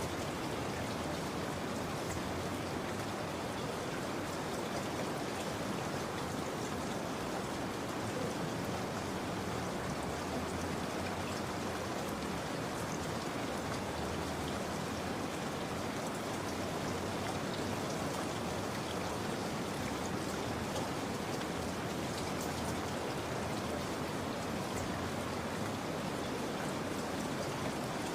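Steady rain falling, an even hiss with light patter of scattered drops.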